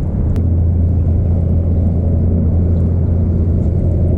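Power-Pole shallow-water anchor's electro-hydraulic pump running: a steady low hum that starts with a click about half a second in.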